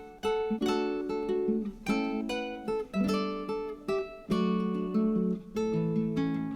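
Background music: acoustic guitar playing plucked and strummed chords, each note struck sharply and ringing out.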